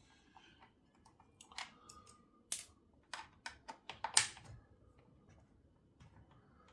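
Scattered light clicks and taps of small chainsaw parts being handled, about a dozen in irregular succession, loudest in the middle.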